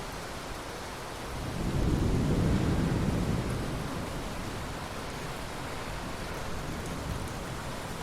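Steady rain with a roll of thunder that swells about a second and a half in, is loudest for a couple of seconds, then fades back into the rain.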